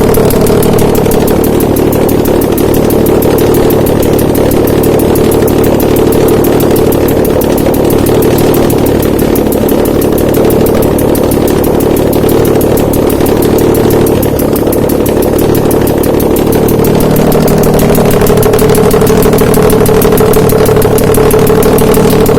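Nissan VQ35DE 3.5-litre V6 engine running steadily on an engine test stand, with a slight change in its note a little past three quarters of the way in.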